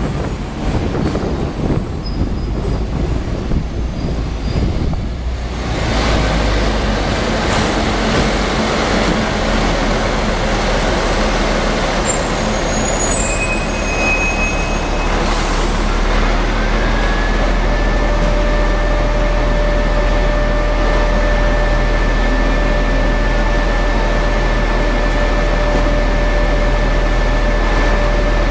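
Hong Kong double-decker electric tram running, heard from on board as a steady low hum. Past the middle, a whine rises and then holds at one steady pitch.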